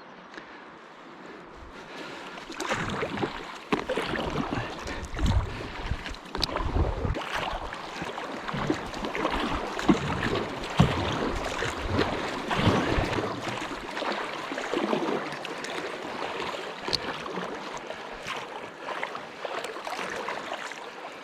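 Kayak paddled down a river: water rushing and splashing around the hull, with irregular paddle-stroke splashes and knocks. It gets louder about two seconds in.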